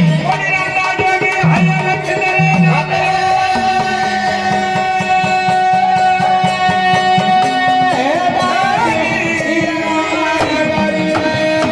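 Marathi devotional folk music: long held melody notes over steady hand-drum playing, with a voice gliding through a sung phrase about eight seconds in and again near the end.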